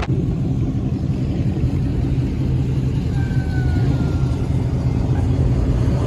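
Car engine running with a steady, low rumble, cruising without big changes in revs.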